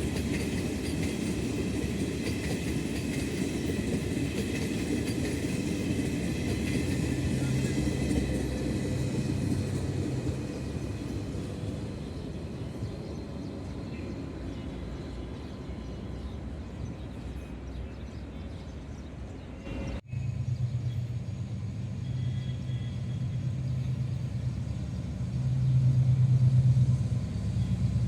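General Electric diesel locomotive and its train running by with a steady rumble. About two-thirds of the way through it cuts suddenly to a steady low engine drone, which grows louder near the end.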